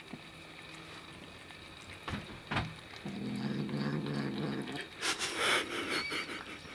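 Kitten growling over its food while eating: a low, steady growl lasting nearly two seconds, preceded by a couple of sharp clicks and followed by louder, noisier sounds.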